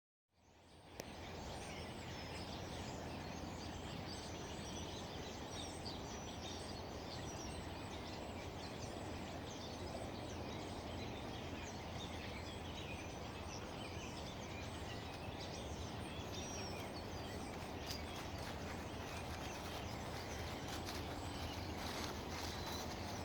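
Many wild birds singing and calling in a forest, a steady scatter of short chirps and whistles, over a steady low background rumble.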